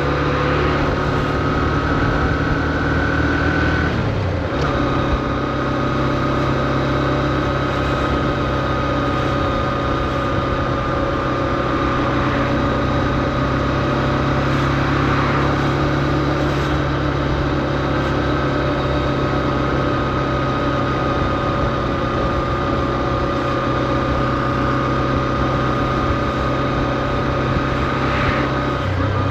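Honda CB125F's air-cooled single-cylinder engine running steadily at low revs under way, kept gentle because the new engine is being run in. About four seconds in, the engine note drops and then holds, as at an upshift.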